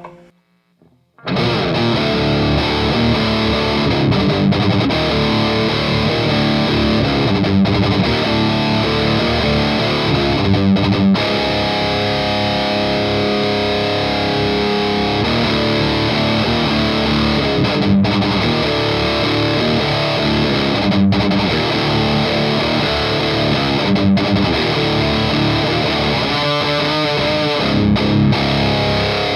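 Heavily distorted electric guitar played through a Skull Driver V2 Evolution overdrive pedal into an EVH 5150 Iconic amp. The player is riffing with chords and palm-muted chugs, starting abruptly about a second in, with a few brief stops.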